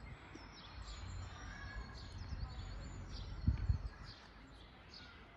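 Several small forest birds chirping and trilling in quick, high calls over a steady low rumble, with two dull low thumps about three and a half seconds in, the loudest sounds here.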